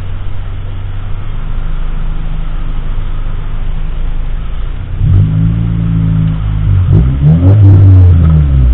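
Car engine and road noise with a steady low hum, then the engine speeds up about five seconds in, its pitch rising and falling over the last few seconds as it revs.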